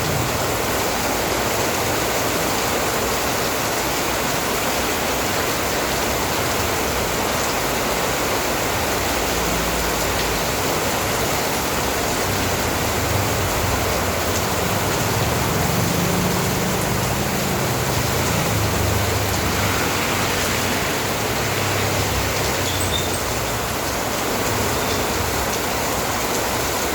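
Steady rain falling, a continuous even hiss, with a low rumble coming and going through the middle.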